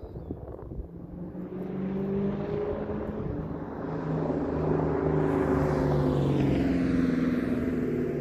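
2003 Ford Mustang Mach 1's 4.6-litre V8 with a Carven aftermarket exhaust, the exhaust note growing louder over the first few seconds and then holding steady at a strong level.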